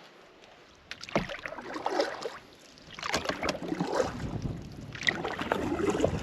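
Canoe paddle strokes: water swishing and dripping off the blade, with light knocks. A first stroke comes about a second in, and steady paddling takes up again from about three seconds in.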